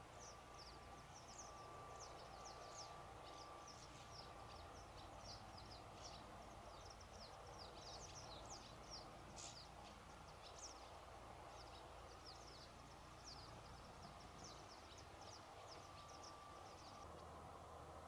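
Faint birdsong: many short, high chirps in quick succession over a low steady background. The chirps stop near the end.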